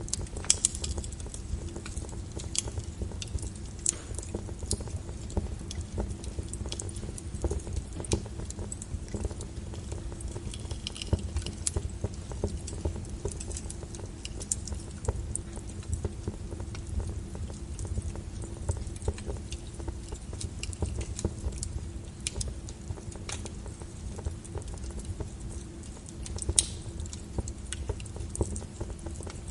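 Wood logs burning in a fireplace: a steady low rumble of the fire with irregular sharp crackles and pops, a few louder snaps near the start and near the end.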